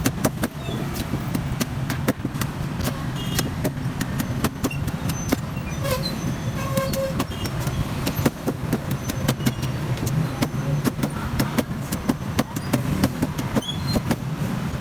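Street traffic hum with many sharp knocks and clicks throughout, and a few brief horn toots about six to seven seconds in.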